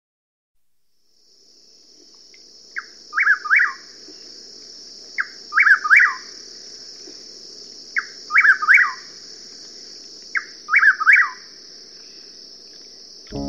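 Bird calls over a steady high hiss that fades in about a second in. The bird repeats the same short phrase four times, about every two and a half seconds: a quick note followed by a few falling chirps.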